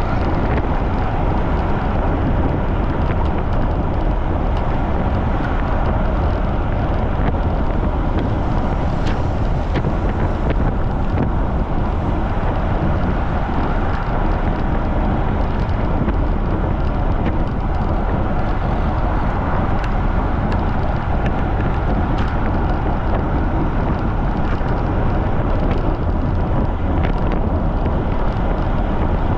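Strong wind buffeting the microphone of a camera on a bicycle riding at speed, a steady rush of wind noise with a few faint clicks.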